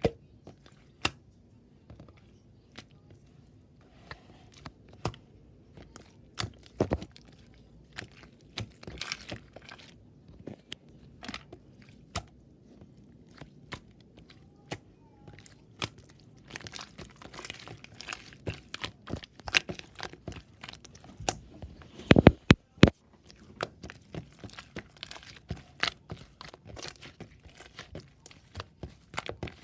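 Irregular close-up crunching, crinkling and tapping sounds, a string of sharp snaps and clicks that grows busier past the middle, with the loudest few snaps about two-thirds of the way through.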